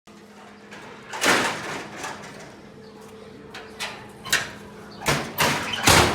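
A series of sharp knocks and clatters, about seven of them, coming faster near the end, over a steady low electrical hum.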